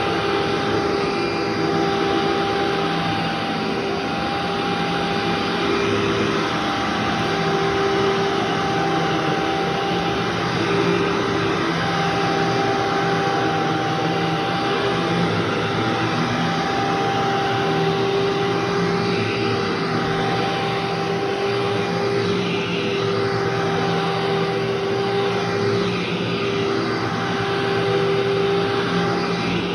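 Vacuum cleaner running continuously, a steady motor whine over loud airflow hiss, as it picks up three months of built-up dirt.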